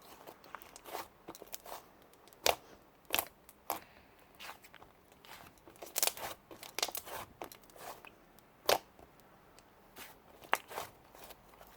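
Slime being squeezed and poked by hand, making irregular clicks, pops and short crackles, with louder pops about two and a half, three, six, nine and ten and a half seconds in.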